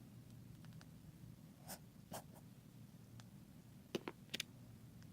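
Faint handling of small repair parts: a few light taps and scrapes, then a quick cluster of three sharper clicks about four seconds in.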